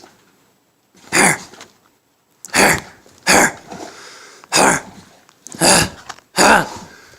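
German Shepherd puppy barking: six short, sharp barks about a second apart.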